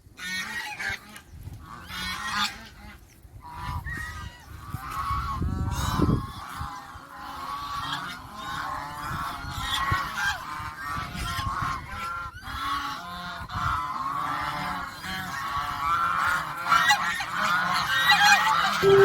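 A flock of domestic geese honking continuously, many calls overlapping. A low rumble comes in briefly about six seconds in.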